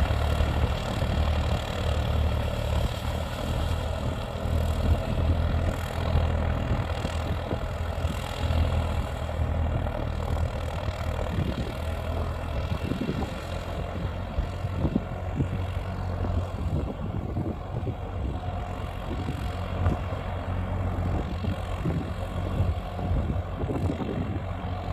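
Tractor engine running steadily, a continuous low hum.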